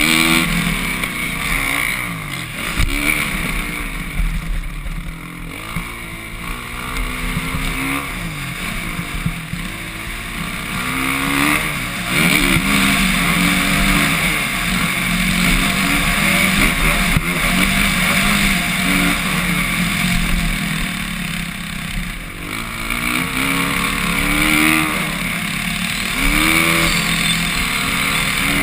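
Suzuki RM-Z450 four-stroke single-cylinder motocross engine under load on track, its pitch repeatedly rising and falling as the throttle is opened and shut.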